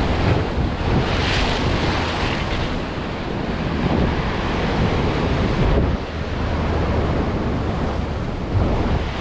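Ocean surf breaking and washing up the beach in surges, with wind buffeting the microphone.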